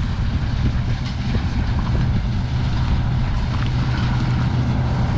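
Diesel engine of farm harvest machinery running steadily, a constant low hum.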